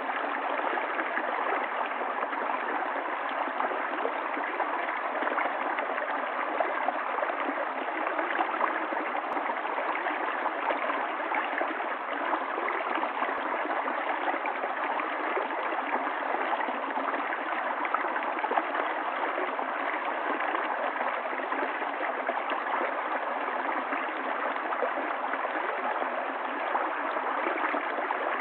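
Running water of a stream, flowing steadily with an even rush and no breaks.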